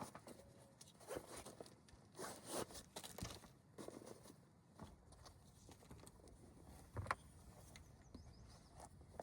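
Quiet rustling and handling noises, soft scrapes and light taps, with one sharp click about seven seconds in.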